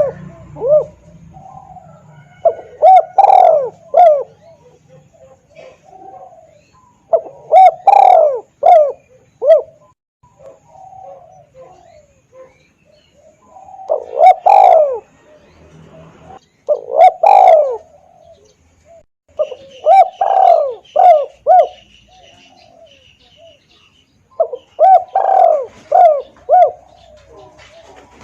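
Spotted dove (tekukur) cooing loudly and clearly: a lure call for drawing in wild doves, in phrases of several rounded notes, repeated about every three to five seconds with short pauses between.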